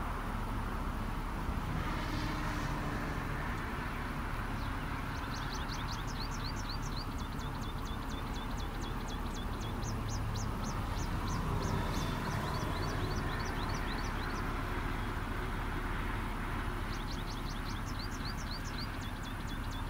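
A bird singing a rapid series of short, high, sweeping notes, about four a second, in two long runs: one from about five to thirteen seconds in, another near the end. Under it is a steady low outdoor rumble.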